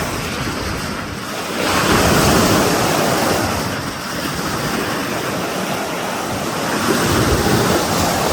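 Loud, steady rushing noise with no pitch, swelling about two seconds in and again near the end, then easing.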